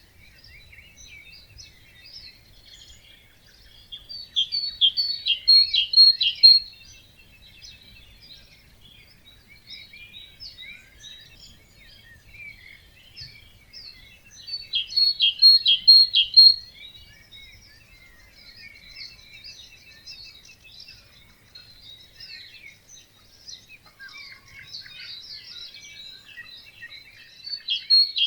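Dawn chorus of songbirds in a wetland, a mix of high chirps and song. One nearby bird sings a loud, quick run of repeated notes about two seconds long, three times, roughly every ten to twelve seconds.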